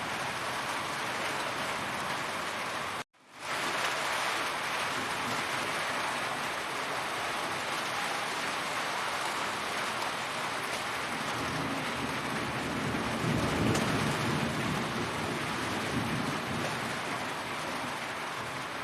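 Heavy rain falling steadily, a dense even hiss of drops. The sound cuts out for a moment about three seconds in and fades back up, and a low rumble swells in the rain around two-thirds of the way through.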